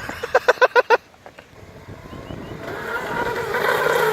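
Car engine being revved through an aftermarket exhaust: a quick run of short bursts in the first second, then the revs climb from about halfway and hold high near the end.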